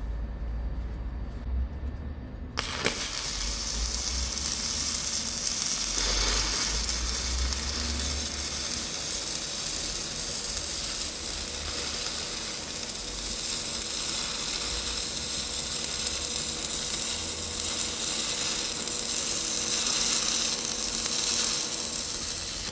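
Wire-feed welding arc sizzling steadily as the new eye is tack welded onto the hydraulic cylinder rod; the arc strikes suddenly about two and a half seconds in.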